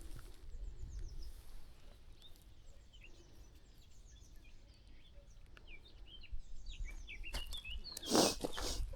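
Small birds chirping and twittering in quick, short notes over a faint low rumble of wind. A loud rustle, like a step or brush through dry vegetation, comes near the end.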